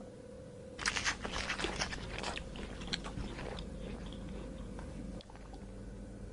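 Crunchy chewing of something crisp, most likely an animal eating. It starts about a second in, is busiest for about three seconds, then turns to fainter, sparser crunches over a faint steady hum.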